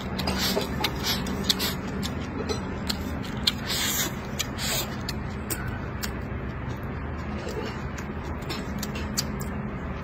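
Close-up eating sounds of a man chewing a mouthful of rice, pork belly and greens: wet smacking and many small mouth clicks, with brief slurps as food is pushed in with chopsticks, over a steady low hum.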